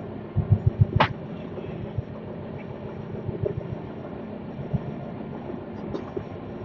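Passenger train running on the rails: a steady rumble with a quick cluster of heavy low knocks about half a second in, a sharp click about a second in, and another click near the end.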